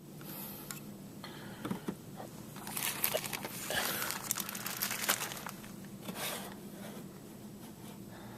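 Crinkling and rustling of plastic being handled, with a few light clicks, as a plastic scale model airliner is fitted onto its display stand. The rustling is densest in the middle for about three seconds, with a short burst near the end.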